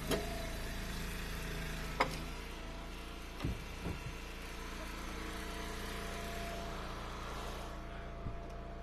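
An engine idling steadily, with a few short knocks over it: a sharp one about two seconds in, a couple more a second or two later, and one near the end.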